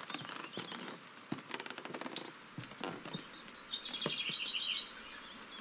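A songbird singing: a fast, warbling trill, loudest from about three and a half to five seconds in, among light scattered taps and clicks.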